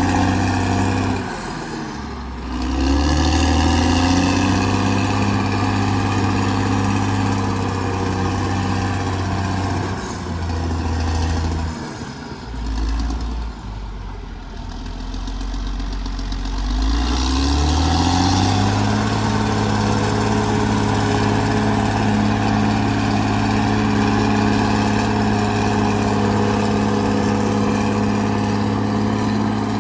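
Caterpillar D6R XL bulldozer's diesel engine running under work, its speed dropping about a second in and again, lower, around the middle, then climbing back up and holding steady for the rest.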